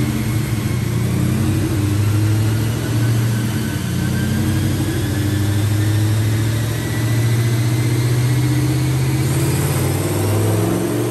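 Turbocharged Ford 4.6L 2-valve V8 in a New Edge Mustang GT running in gear on a chassis dyno at a steady, fairly low speed. A faint whine slowly rises in pitch over it, and the engine note begins to climb near the end.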